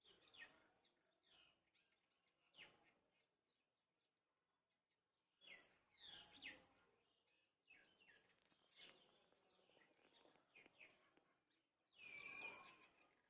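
Faint bird chirping: short falling chirps come in scattered groups, with the loudest group near the end.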